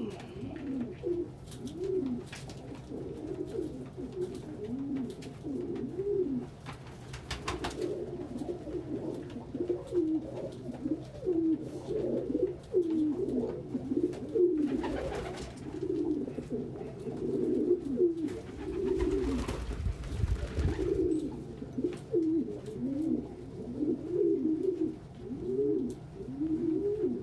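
Several domestic pigeons cooing continuously, their coos overlapping. A few brief noises break in around a quarter, half and two-thirds of the way through.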